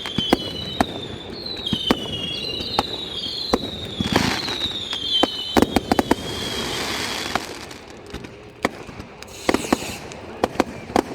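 Fireworks going off: many overlapping whistles for the first seven seconds or so, with sharp bangs and crackles throughout. The whistles stop about seven and a half seconds in, and the bangs carry on.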